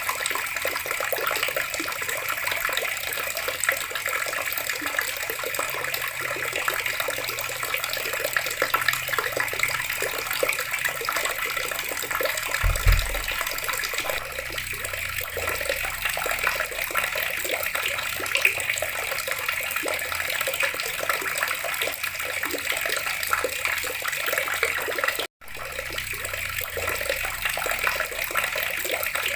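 Water running steadily from a tap and splashing. A brief low thump comes about 13 seconds in, and the sound cuts out for an instant a little after 25 seconds.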